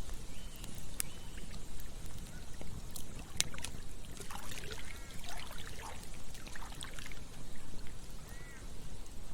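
Wood campfire crackling, with sharp pops every second or so, over steadily flowing river water. A few short bird calls come in around the middle and once near the end.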